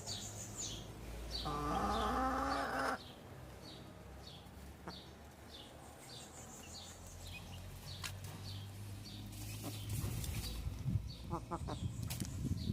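Chickens: a loud call from about a second and a half in, rising and then held for over a second before it stops abruptly, over a steady run of short high peeps about two a second. More calls come near the end.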